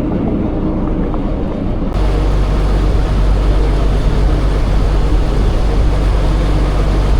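Boat engine running steadily at cruising speed, a constant low hum with rushing noise over it; about two seconds in the sound changes abruptly and becomes brighter.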